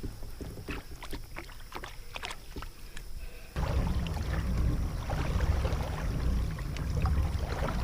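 Light scattered clicks and knocks of handling aboard a kayak. About three and a half seconds in, it switches abruptly to a louder, steady low rumbling noise.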